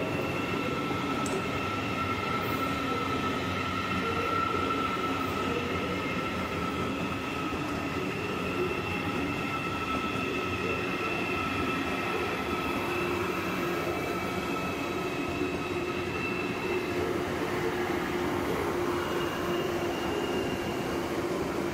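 An ICE 4 high-speed electric train rolls slowly past through the station: a steady rumble of wheels on rail with high whining tones held over it.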